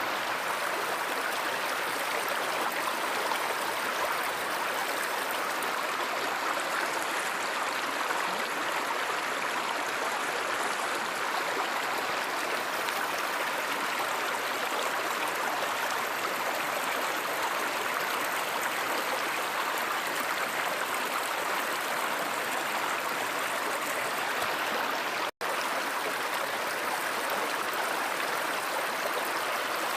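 River or stream water rushing steadily. The sound drops out for a split second about 25 seconds in.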